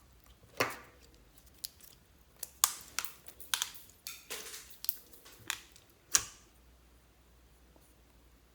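Slime being squished and pressed by hand, giving a string of sharp wet pops and clicks, about a dozen, that stop about six seconds in.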